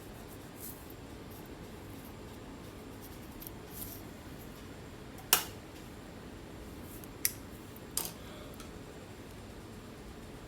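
Scalp flakes being picked and scratched close to the microphone: a few soft scratches, then three sharp clicks about five, seven and eight seconds in, the first the loudest, over a steady faint hiss.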